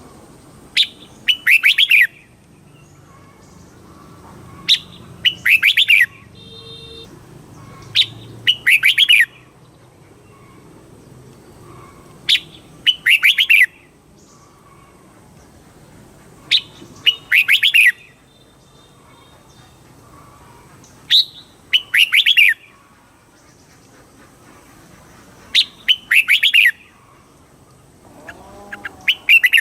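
Red-whiskered bulbul singing: short, loud phrases of a few quick, bright notes, repeated about every four seconds.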